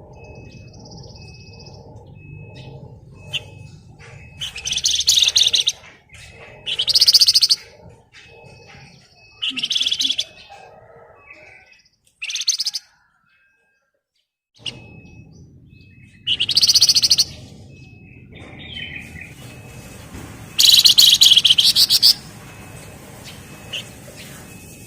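Javan fulvetta (wergan jawa, the cage bird sold as 'flamboyan') singing its dense, rattling trill in six loud bursts of about a second each. A faint high peep repeats about twice a second underneath, and the sound cuts out completely for about two seconds midway.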